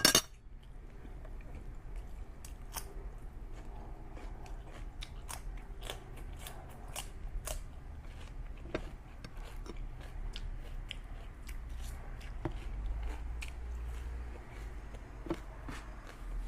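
A person chewing and biting food close to the microphone: irregular wet mouth clicks and smacks, with a sharp click right at the start.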